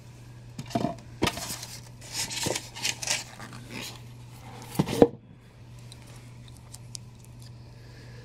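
Statue packaging being handled: sharp knocks in the first second or so, rustling around two to three seconds in, and a louder knock about five seconds in, over a steady low hum.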